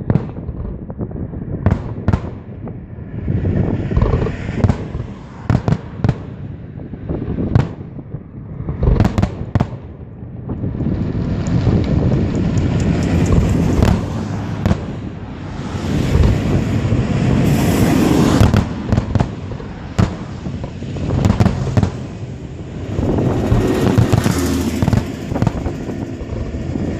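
A fireworks display: shells bursting in a string of sharp booms, with dense crackling and fizzing in stretches where many go off together.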